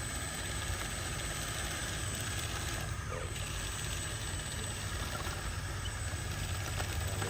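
Electric motors and gearboxes of remote-control construction trucks running steadily, a continuous low hum with no clear changes.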